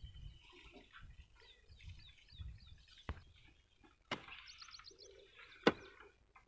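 Birds chirping and calling, with a few sharp knocks about halfway in and one louder knock near the end.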